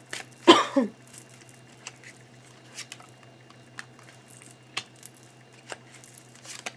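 Tarot or oracle cards being handled and laid out: a louder shuffle or slap about half a second in, then light card clicks and taps roughly once a second, over a steady low hum.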